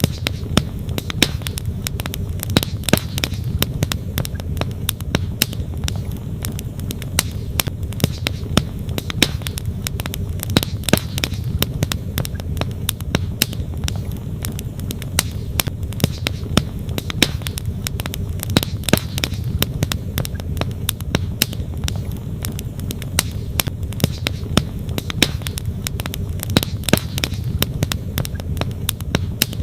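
Wood campfire crackling, with frequent sharp irregular pops, over the steady rush of a flowing stream.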